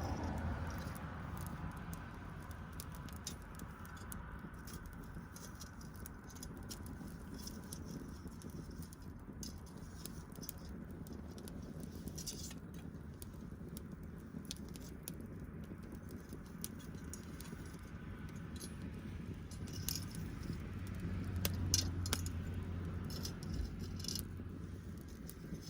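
Wood fire crackling, with many scattered sharp pops and snaps over a low steady rumble that swells for a few seconds late on.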